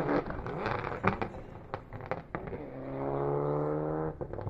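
Rally car engine held at high revs, breaking off at the start into a spell of sharp pops and crackles. It pulls again at steady high revs from about three seconds in, then breaks off briefly with more pops near the end.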